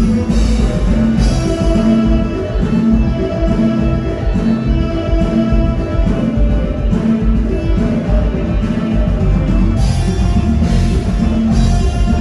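Live band music through a PA sound system: a huapango with a strong bass line and a steady beat.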